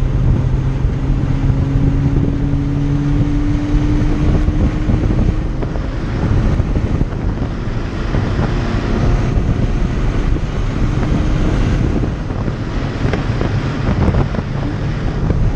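Porsche Cayman R's flat-six engine running at speed, its note rising in pitch over the first few seconds, under a heavy rush of wind and road noise that dominates the rest.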